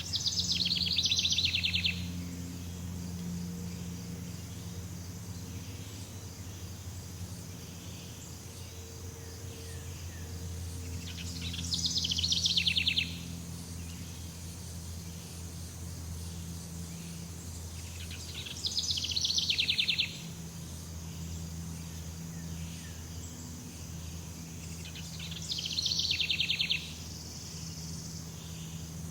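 Jungle ambience: an animal gives a rapid pulsed call four times, each lasting about a second and a half, roughly every seven seconds. Underneath runs a steady high insect drone and a low hum.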